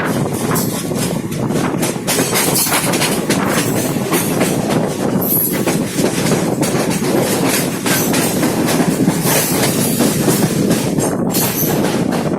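Train passing close by, its wheels clattering steadily over the rail joints amid heavy track noise.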